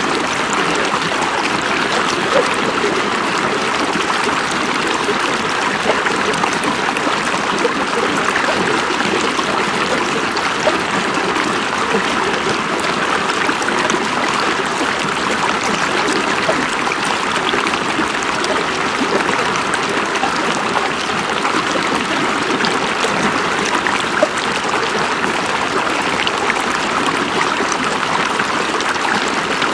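River water running over rocks: a steady, even rush with small splashes and gurgles all through.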